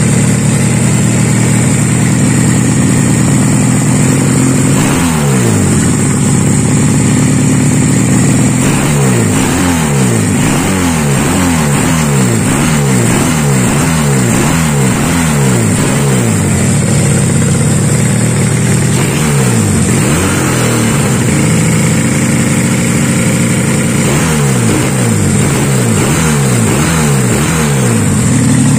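Custom two-cylinder engine in a Honda Supra motorcycle, idling and blipped over and over. There are runs of quick throttle blips about five seconds in, through the middle and near the end, with each rev falling straight back toward idle.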